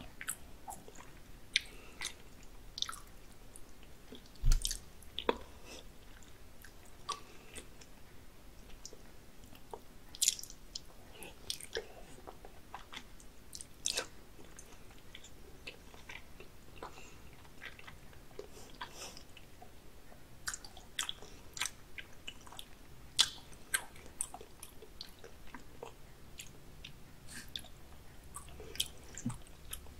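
Close-miked chewing and biting of raw salmon sashimi: irregular sharp, wet mouth clicks scattered throughout.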